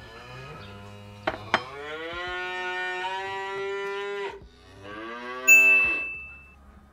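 A cow mooing: one long steady call of about three seconds, just after two quick knocks, then a shorter falling call. A bright ding rings out about five and a half seconds in and dies away; it is the loudest sound.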